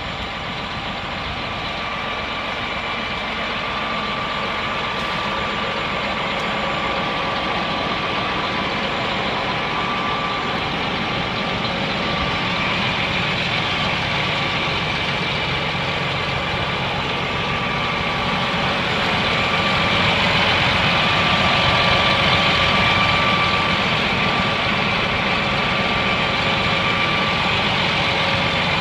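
John Deere 8235R tractor's diesel engine idling steadily, with a faint steady whine above it. It grows slightly louder about two-thirds of the way through.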